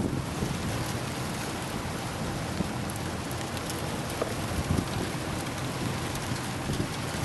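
Steady hiss of wind-driven rain in a storm, with a few low gusts of wind buffeting the microphone.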